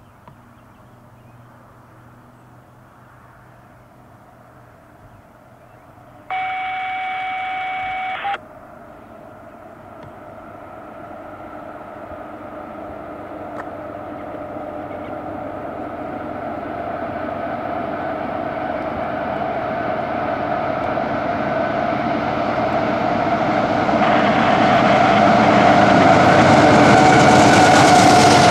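CSX diesel locomotives hauling a double-stack intermodal freight train approach, their engine drone and wheel rumble growing steadily louder until the lead units pass close by near the end. About six seconds in, a steady two-second tone starts and stops abruptly.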